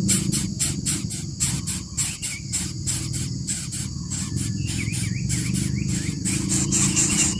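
Insects chirping in a fast, even pulse of about five a second over a steady low hum. A few short, faint bird chirps come through in the middle.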